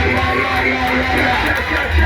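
Live church band music with electric guitar over a heavy, steady bass.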